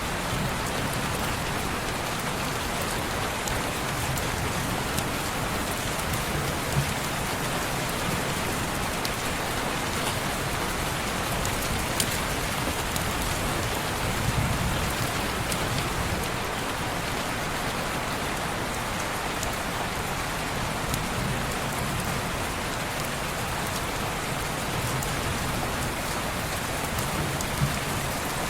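Steady rain falling on window glass, an even hiss with a few sharp ticks of single drops.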